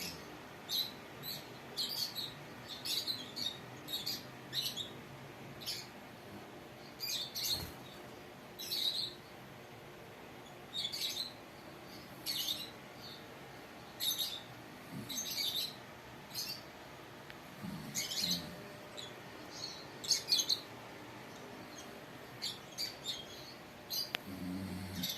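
Pet lovebird chirping: short, high chirps in irregular runs with brief pauses between them.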